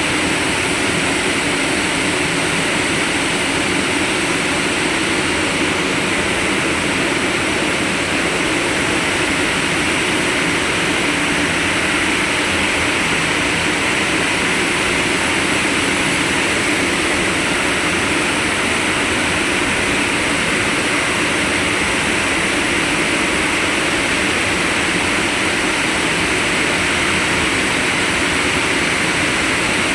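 Coal preparation plant machinery running steadily: a loud, constant mechanical hum and rush with no breaks or changes.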